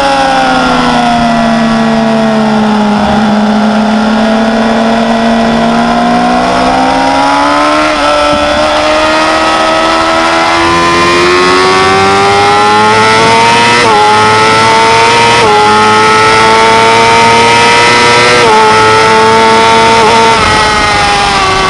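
Sport motorcycle engine heard onboard at speed. The engine note falls as the bike slows, holds low for a few seconds, then climbs steadily under a long stretch of acceleration with a few small jumps in pitch, and drops off near the end as the throttle closes.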